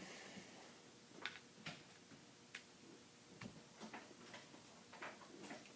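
Faint, scattered clicks and taps of alphabet letters being handled and set down on a metal pizza pan, with a few irregular taps a second apart in otherwise near silence.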